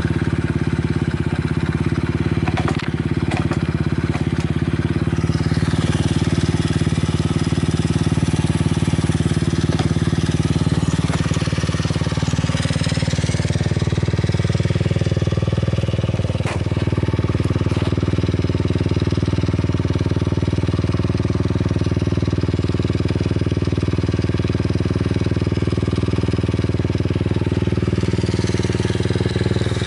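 Honda Solo AC17's 50cc four-stroke single running at idle through an aftermarket Advance Pro full exhaust, steady, with the engine speed briefly shifting about twelve seconds in. It runs without abnormal noise.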